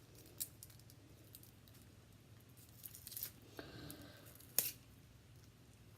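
Faint kitchen handling sounds: a few scattered clicks and taps of utensils and food prep, with one sharper click about four and a half seconds in.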